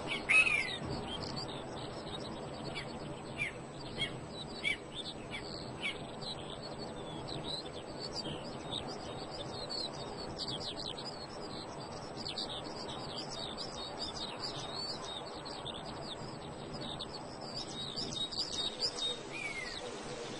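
Wild birds chirping and calling, a busy run of short high chirps all through, with a louder downward-sliding call right at the start.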